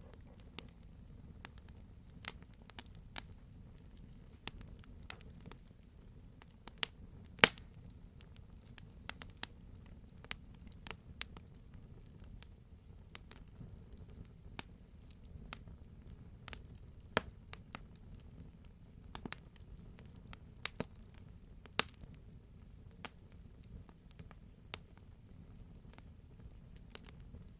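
Wood campfire crackling: irregular sharp pops and snaps, a few much louder than the rest, over a low steady rumble of the burning logs.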